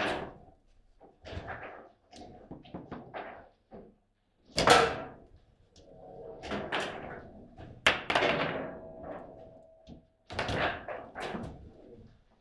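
A series of hard thuds and knocks, the loudest about four and a half seconds in, with another sharp knock near eight seconds followed by a short ringing tone.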